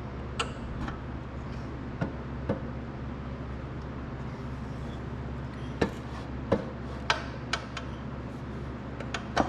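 Sharp light taps of a wooden tool handle on the crown of a piston, driving it through a ring compressor into the cylinder of a Kohler K241 engine. There are about ten irregular knocks, some in quick pairs, over a steady low hum.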